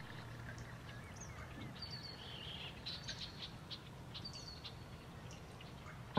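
Wild birds calling: scattered short chirps and a few high, held whistled notes, over a faint low background hum.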